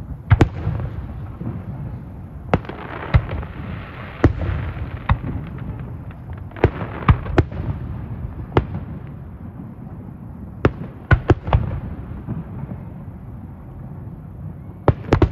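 Aerial firework shells bursting overhead: an irregular series of sharp bangs, some in quick clusters of two to four, over a continuous rumble.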